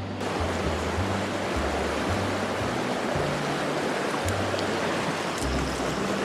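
Mountain stream water rushing as a steady hiss, under background music whose low bass notes change every second or so.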